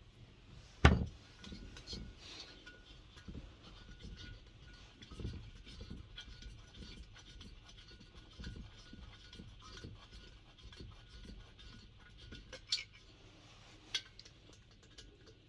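Handling and unbolting the metal parts of a diesel heater: a sharp knock about a second in, then scattered light clicks, clinks and rubs of metal and tools, with two sharper clicks near the end.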